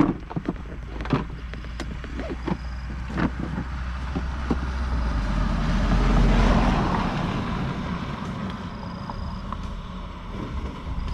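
Motorbike road noise: a steady low engine and traffic rumble with a few sharp knocks in the first three seconds, swelling to its loudest about six and a half seconds in, then easing.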